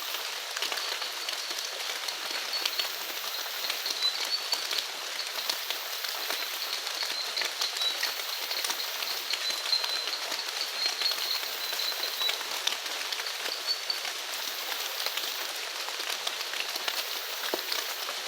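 Steady rain falling, a dense patter of many individual drops. Through it runs a thin, high, wavering call from small animals, with a very high shrill band that switches on and off every second or two.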